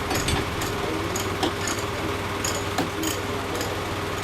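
An engine idling steadily with a low hum, under a scatter of light, sharp clicks and taps.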